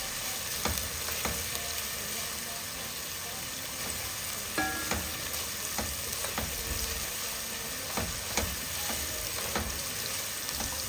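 Sliced onions and garlic sizzling in hot oil in a pot, stirred with a spatula that gives irregular light knocks and scrapes against the pot every second or so.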